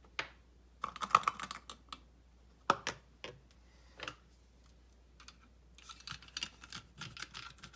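Light plastic clicks and knocks from a plastic spray bottle and its parts being handled on a counter: a few sharp taps in the first few seconds, then a quicker run of small clicks near the end.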